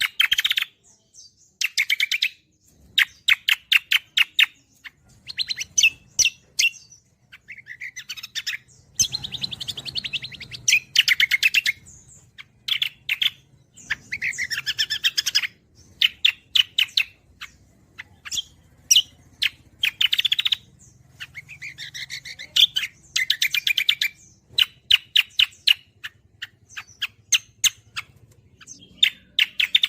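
Cucak kombo songbird singing: short phrases of rapid repeated notes and fast trills, one after another with brief pauses between them.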